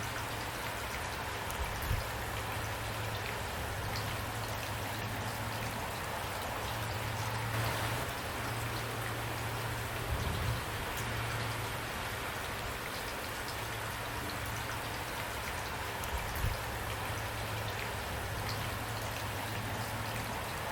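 Steady rain falling: an even hiss of drops, with a low rumble underneath that swells and fades and a few slightly louder drops.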